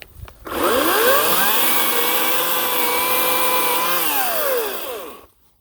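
Ryobi 18-inch electric chainsaw triggered on: its motor whine rises quickly, holds at a steady speed for about two and a half seconds, then winds down and stops.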